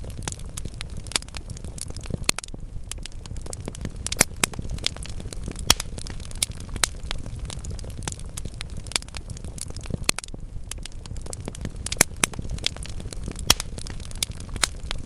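Wood fire of burning logs crackling, with a steady low rumble under frequent sharp, irregular pops and snaps.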